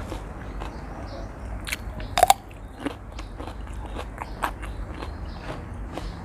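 Close-up chewing and crunching while eating a spicy seafood instant-noodle dish: a run of short crisp clicks, loudest a little over two seconds in, over a steady low hum.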